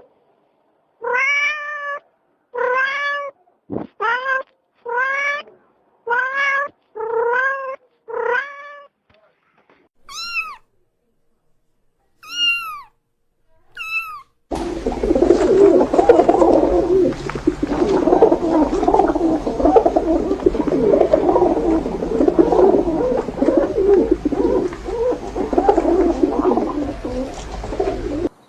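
A cat meowing repeatedly, about seven meows roughly a second apart, then two higher-pitched meows a couple of seconds apart. About halfway through, the sound switches abruptly to a loud, dense, continuous clamour of many animal calls.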